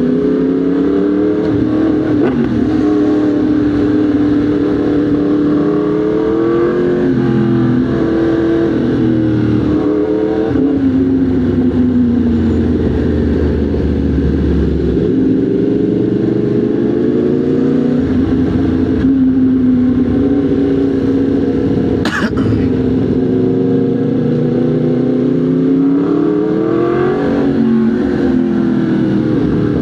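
Motorcycle engine running under riding load, its pitch climbing and dropping back several times as it accelerates and shifts gear. A single sharp click comes about 22 seconds in.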